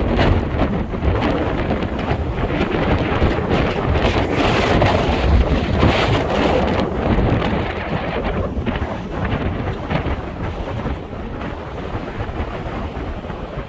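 Strong wind buffeting the microphone: a loud, gusting rumble that eases a little near the end.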